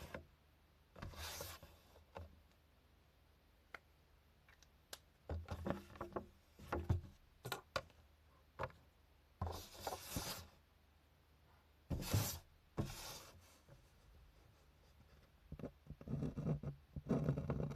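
Hand-drawing on paper for analog manga work: irregular short scratching strokes of a drawing tool across the sheet, with a few small sharp taps and clicks between them.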